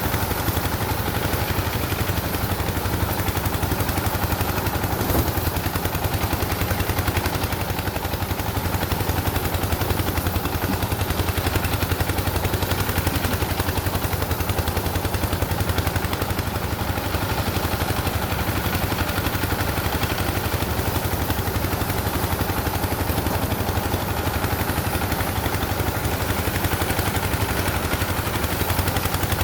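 Engine-driven farm machine running steadily with a fast, even chugging over a low hum.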